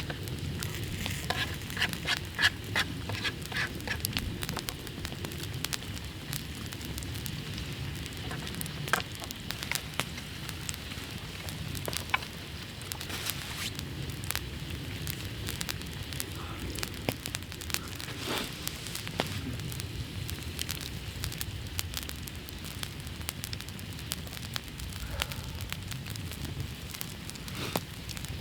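Wood campfire burning steadily, crackling with scattered sharp pops over a low hiss, and a quick run of small snaps a couple of seconds in.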